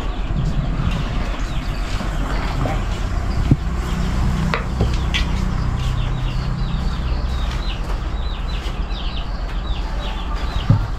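A bird calling in a quick run of short, high, repeated notes, about three a second, over a steady low hum. A single sharp knock sounds about three and a half seconds in.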